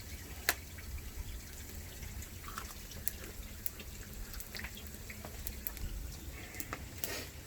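Water dripping and trickling, with scattered small clicks at irregular intervals.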